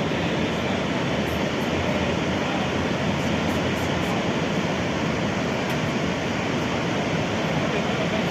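Iguazu Falls: the steady, unbroken rushing of a large volume of falling water.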